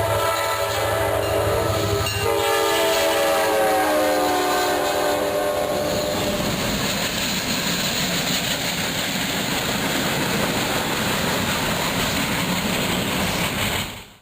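Norfolk Southern locomotive's air horn blowing as it passes, its pitch falling over a few seconds, then the steady rumble and clatter of the train rolling by. The sound cuts off abruptly just before the end.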